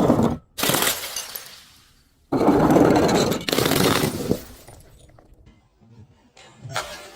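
Glass bottles shattering and being crushed: a sharp crash about half a second in, two loud crunching breaks back to back a little over two seconds in, and a fainter crack near the end.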